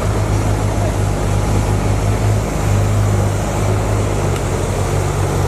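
The diesel engine of heavy earthmoving equipment running steadily with a deep, even hum. The hum dips briefly about halfway.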